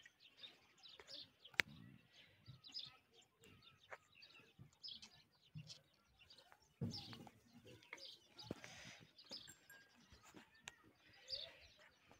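Faint background of small birds chirping, broken by scattered clicks, with one sharp click about a second and a half in.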